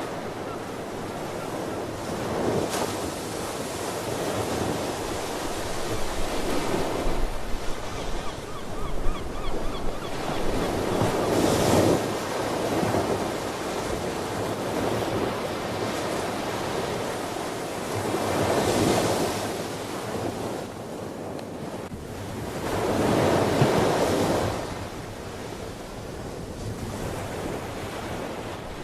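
Ocean waves breaking and washing onto the shore, swelling in a louder surge every few seconds, with some wind on the microphone.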